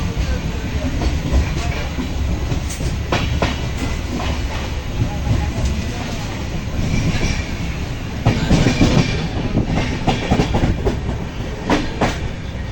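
Passenger train running along the track, heard from on board: a steady rumble of the carriage with irregular clacks of the wheels over rail joints, busiest around eight to nine seconds in.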